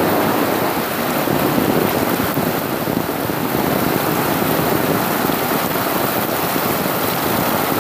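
Heavy rain falling steadily in a tropical downpour.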